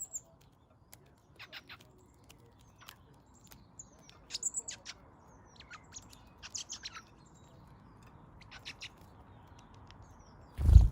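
Garden birds chirping in short, high notes, in scattered clusters. A brief loud low thump comes just before the end.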